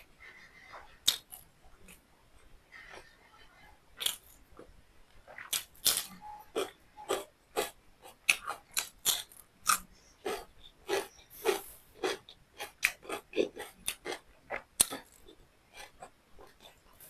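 A person chewing beef liver and rice close to the microphone: a run of short smacking mouth clicks, sparse at first and then about two a second through the middle stretch.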